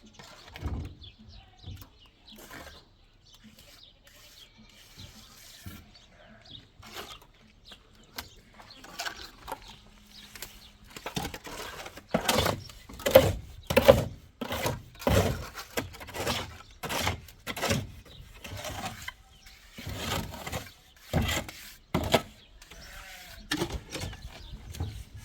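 A run of uneven knocks and scrapes from hand work, sparse at first and then coming about one or two a second through the middle and later part, typical of cement being worked and spread on a wall with hand tools.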